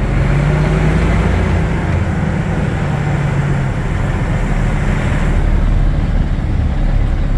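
Water truck's Caterpillar diesel engine running under way, heard from inside the cab as a steady low drone mixed with road noise; its held low note eases off a little after three and a half seconds.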